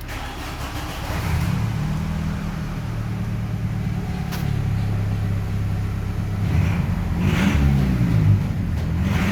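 Car engine heard through its exhaust, running steadily, then revved up and down a few times near the end.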